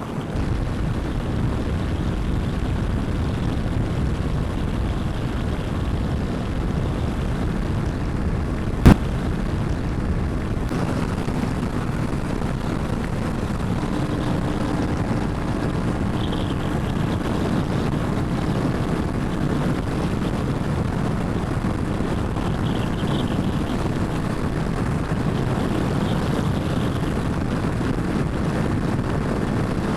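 Steady road and wind noise of a Royal Enfield Himalayan 450 riding at speed, its engine running under the wind rushing over the microphone. There is one sharp click about nine seconds in.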